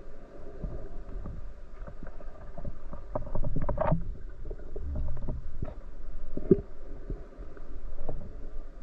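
Muffled underwater noise with a low rumble, broken by scattered clicks and knocks, loudest about four seconds in.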